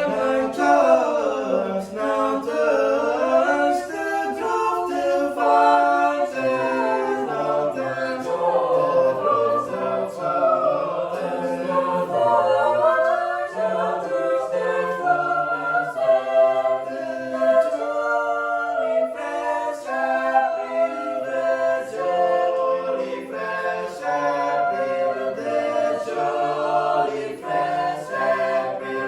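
A cappella choir singing in several voice parts, with no instrumental accompaniment.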